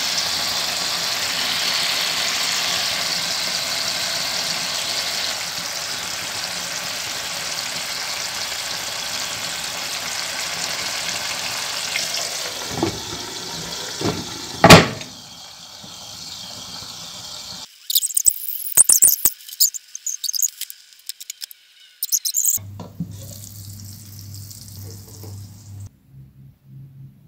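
Meat patties frying in vegetable oil in a pan, a steady sizzle. About fifteen seconds in there is a sharp clink as the glass lid goes on, and the sizzle drops away. After that there are only scattered faint crackles and clicks.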